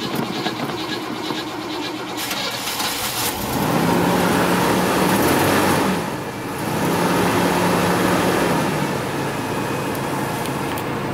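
Buick Electra Estate wagon's V8 being restarted cold after sitting for a long time: the starter cranks for about three seconds, then the engine catches and runs at a fast idle, sags briefly about six seconds in, then picks up again and runs steadily.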